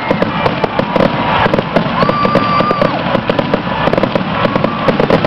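Fireworks display: aerial shells bursting in rapid succession, a dense run of crackling and popping reports.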